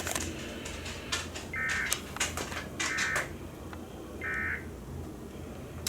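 Three short bursts of buzzing SAME digital data tones from a NOAA Weather Radio broadcast, a little over a second apart, over receiver hiss, low hum and scattered clicks. Bursts this short are the end-of-message code that closes an emergency alert.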